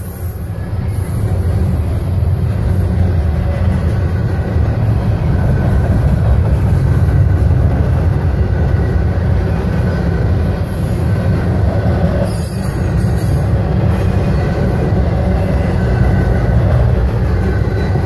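Double-stack intermodal container train of well cars rolling past close by: a loud, steady low rumble of wheels on rail, with faint high squealing tones over it. The rumble starts to fade near the end as the last car goes by.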